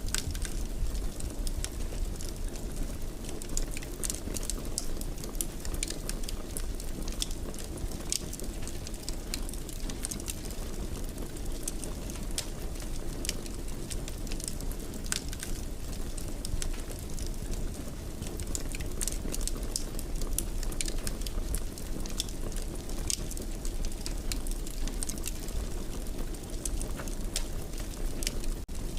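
Wood fire crackling in a fireplace: many small, sharp, irregular pops over a steady low rumble of burning.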